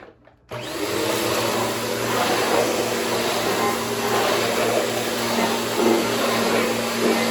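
Bissell CleanView 3536 vacuum cleaner switched on after a few faint clicks, its motor starting about half a second in and then running steadily with a low hum under a loud rushing noise.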